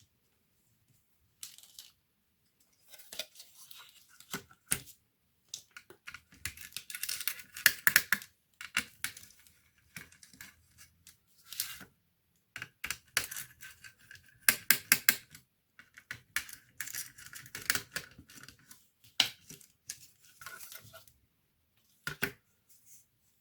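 Hands working on a laptop's plastic and metal parts: irregular runs of small clicks, scrapes and rustles, with short pauses between them.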